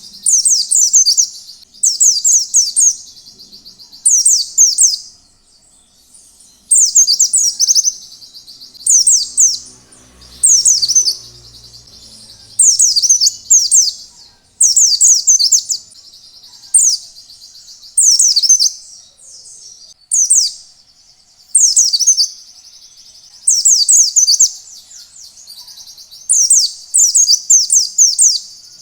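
White-eye (pleci) singing. It gives short, high-pitched phrases of rapid falling notes, each about a second long and repeated every second or two.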